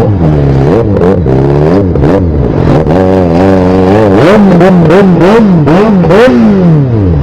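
Yamaha XJ6 motorcycle's inline-four engine being revved through its loud exhaust, over and over in quick rises and falls of pitch, with a long drop back down near the end.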